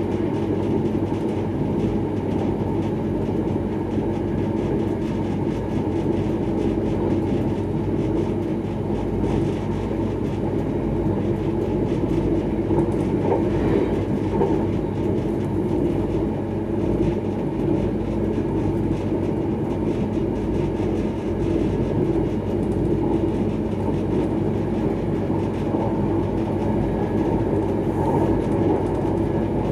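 Electric passenger train running at speed on open track, heard from inside its rear cab: a steady rumble of wheels on rail that stays even throughout, with a few faint clicks.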